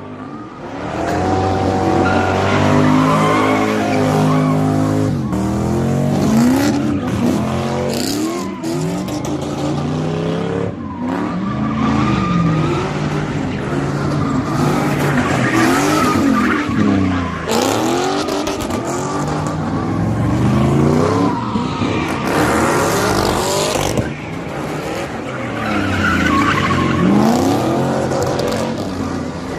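Car engine revving up and down over and over while its tyres squeal and skid, as a car does donuts at a street sideshow.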